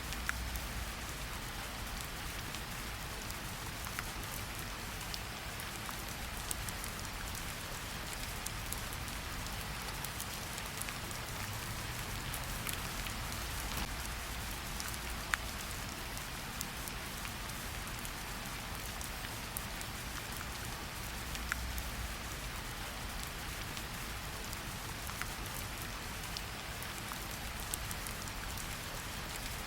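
Steady rainfall in a forest, an even hiss with many individual drops pattering and ticking close by, and a low rumble underneath.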